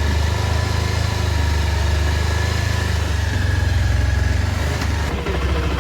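Bajaj Pulsar 150 single-cylinder four-stroke engine running steadily at idle on its first start after a full rebuild.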